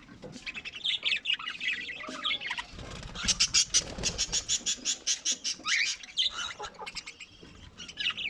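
Budgerigars chirping and squawking in scattered high calls, with a fast run of short repeated rasping calls, about eight a second, from around three seconds in to about five and a half.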